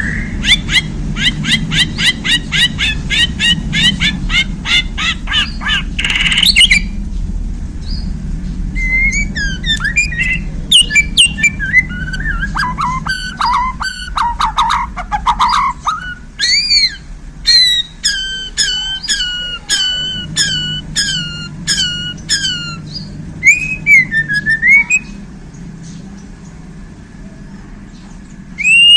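Bornean white-rumped shama singing loudly: a fast run of rapidly repeated sharp notes, then varied whistled phrases that slide down in pitch, then a string of evenly repeated sharp notes, with a few quieter whistles near the end.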